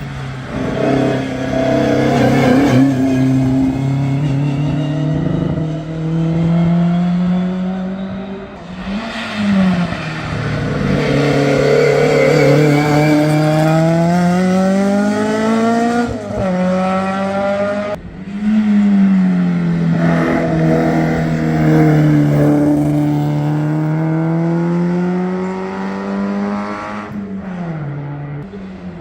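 Historic competition cars racing a hill climb: engines revving hard up through the gears, the pitch climbing and then dropping at each shift, with passes and downshifts through the bends.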